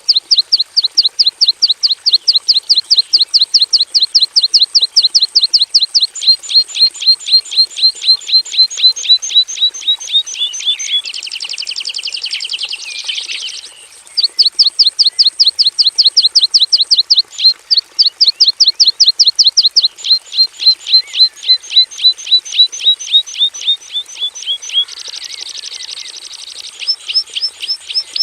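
Javan bush lark (Mirafra javanica) singing a long run of quick, sharp repeated notes, about four to five a second. The run twice gives way to a dense trill lasting a couple of seconds, about halfway through and again near the end.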